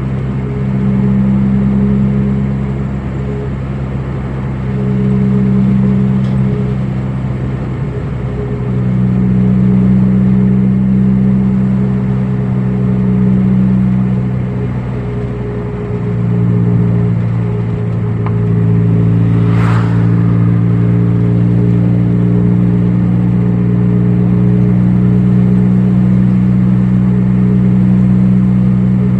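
Car engine running steadily while driving, a low drone whose loudness swells and eases every few seconds, with a short whoosh about twenty seconds in.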